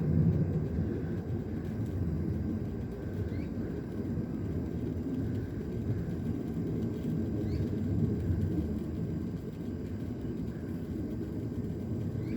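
A low, uneven rumble, with a few faint, short high chirps scattered through it.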